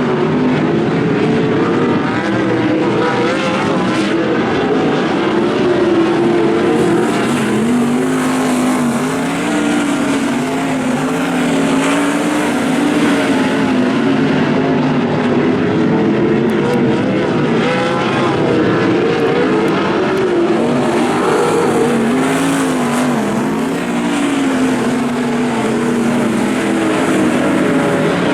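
Several 410 sprint car engines racing on a dirt oval, their pitches wavering up and down together as the cars lift and accelerate through the turns and down the straights.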